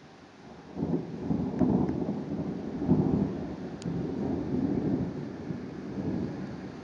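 Thunder: a peal that starts abruptly about a second in, then rolls on in several low swells, slowly fading.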